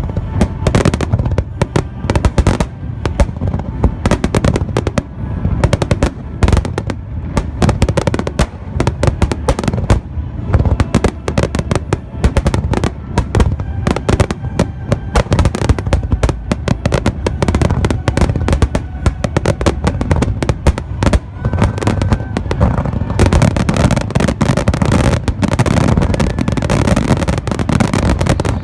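Fireworks display: shells bursting in rapid, overlapping succession, the bangs growing denser and more continuous in the last few seconds.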